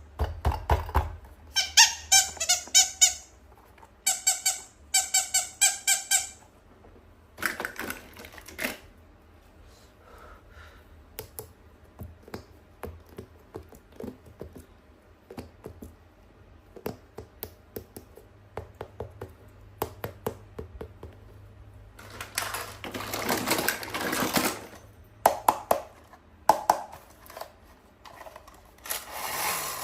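Two runs of rapid high-pitched squeaking in the first few seconds, then scattered clicks and a couple of stretches of crinkling from toys and plastic packaging being handled.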